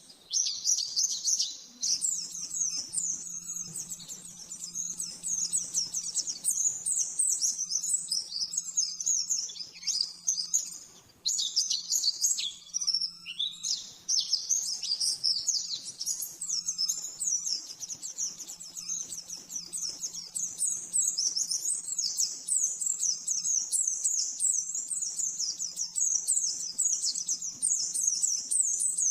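Pleci (white-eye) singing a fast, continuous high twittering song of rapid-fire chirps, the 'nembak' style prized in songbird tutoring, with short breaks about ten and thirteen seconds in.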